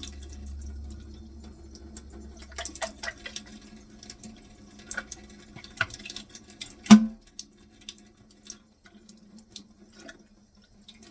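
Water running from a sink tap and splashing through a dishwasher spray arm as it is flushed out, with scattered clicks and taps and one loud knock about seven seconds in.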